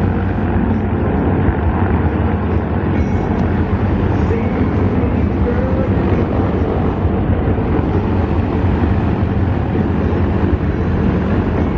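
Steady low rumble of aircraft engines at an air show, with wind buffeting the microphone and faint voices underneath.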